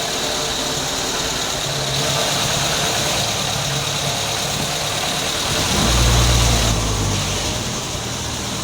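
Ford CHT four-cylinder engine idling steadily, with a low rumble that swells for about a second midway. The timing chain is no longer rattling; the owner puts the remaining noise down to the CHT engine itself, with something knocking in the lower end.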